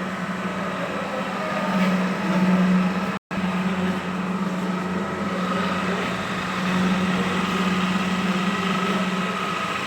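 Centre lathe running during a turning operation: a steady machine hum with a thin, higher whine above it. It swells twice and cuts out completely for a split second about a third of the way in.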